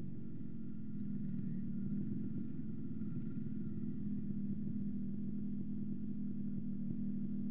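A vehicle engine running steadily, its hum getting a little louder about a second in.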